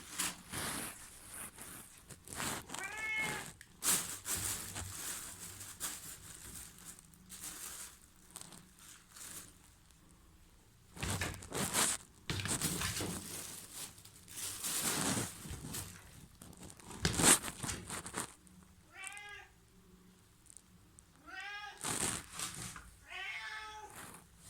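Domestic cats meowing: about four short meows, one early and three close together near the end, with rustling and bumping noises in between, including one sharp knock.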